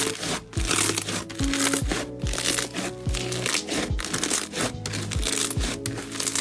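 Background music with a steady beat, over crinkly, crackling sounds of slime being squeezed and pressed.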